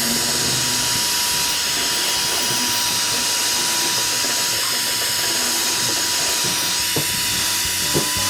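A power tool in a workshop, running steadily with a constant hiss and a thin steady whine, and a couple of small knocks near the end.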